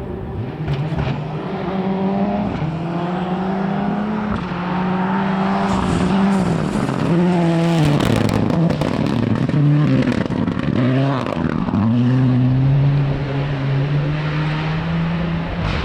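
Rally car engine running hard, its note holding, then falling and climbing again several times in the middle through gear changes as it brakes and accelerates, with a few sharp crackles.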